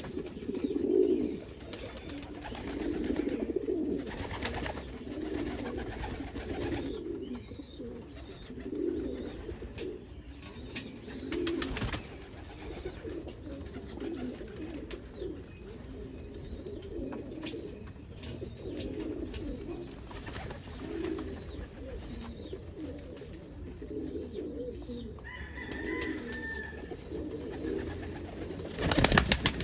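Male crested homing pigeon cooing over and over in low, throaty rounds. A brief loud noise cuts in near the end.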